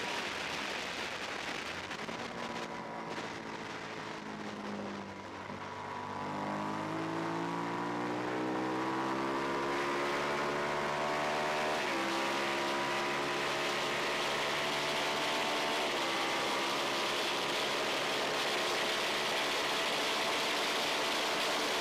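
Twin-cylinder race motorcycle engine heard from onboard: the revs fall away over the first few seconds as it slows for a corner, then climb hard on the exit, with two quick upshifts about halfway through and a few seconds later, before holding high revs down the straight. Wind rush over the bike grows with the speed.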